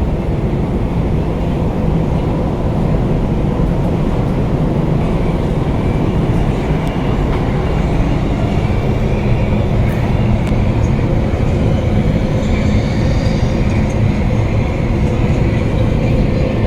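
Running noise of a Circle Line MRT train heard from inside the car, a steady rumble of wheels on rail and running gear. A faint high whine joins in after a few seconds.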